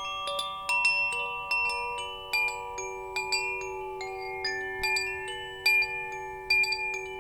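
Metal wind chimes ringing, struck irregularly several times a second, each strike leaving overlapping, long-sustained bell-like tones.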